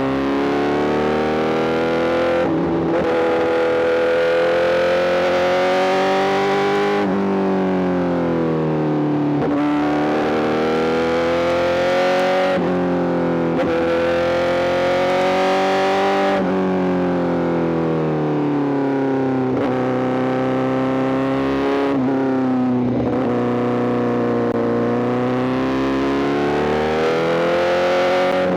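Honda CBR1000RR-R SP's inline-four engine running through an Arrow GP full exhaust while riding. The engine note climbs and falls in pitch, broken every few seconds by short gaps like gear changes.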